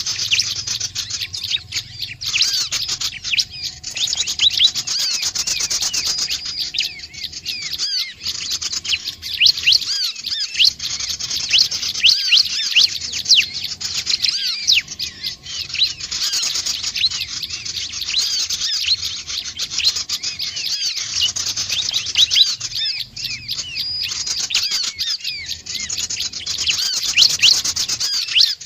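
Bar-winged prinia (ciblek) calling: a continuous, rapid chatter of high, quick chirps with no break.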